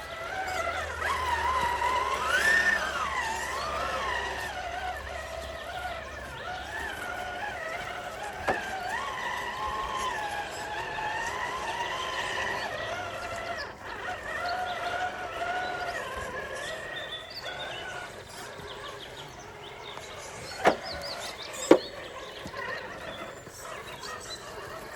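Whine of a 1/10-scale RC rock crawler's electric motor and gear drivetrain, its pitch rising and falling as the throttle is worked over the trail. Two sharp knocks near the end.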